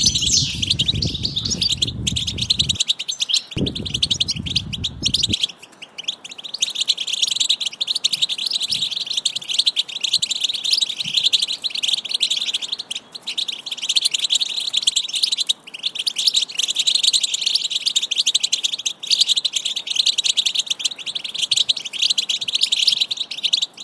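Young bird chicks chirping continuously, many rapid high cheeps running together. A low rumble sounds under them for about the first five seconds, then stops.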